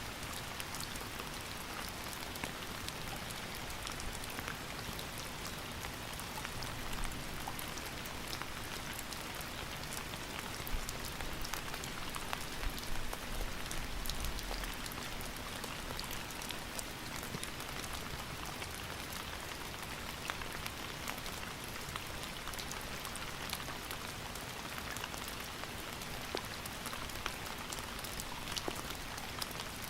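Steady rain falling, with individual drops ticking sharply on a hard surface throughout.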